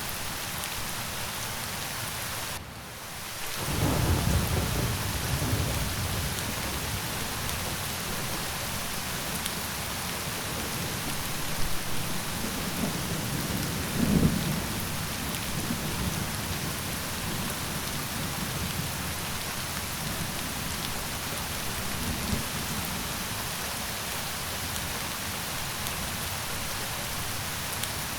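Steady heavy rain with rolling thunder. The rain briefly drops away just before 3 s, then a low rumble of thunder swells for a few seconds; a second rumble peaks about 14 s in, and a fainter one follows near 22 s.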